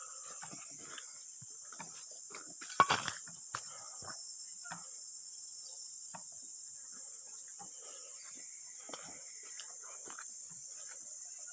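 Steady high-pitched chorus of insects, with scattered small knocks and a short sharp clatter about three seconds in.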